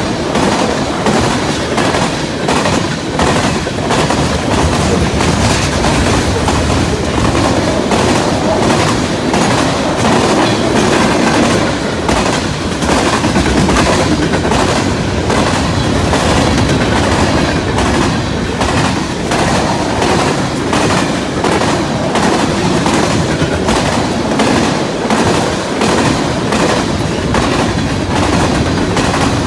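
Freight cars of a CN mixed freight train rolling past, their wheels clicking over the rail joints in a steady, rapid clickety-clack.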